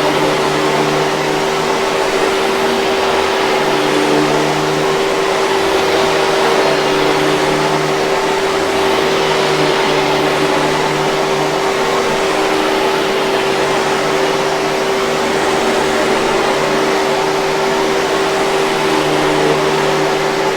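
Hoover 5000 Series canister vacuum cleaner running steadily: one constant motor tone over a rush of air.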